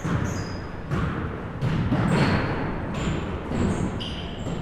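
Basketball bouncing on a gym floor, a thud about once a second, with short high squeaks and echoing background voices in a large hall.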